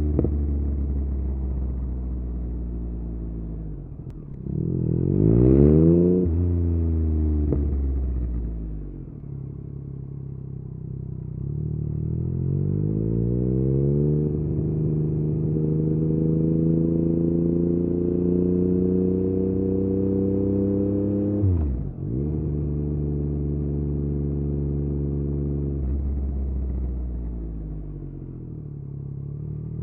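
Yamaha MT-09's three-cylinder engine through an Akrapovic exhaust, ridden through traffic. The revs climb sharply about five seconds in and fall away, rise again and hold steady, then drop abruptly about two-thirds of the way through before settling lower.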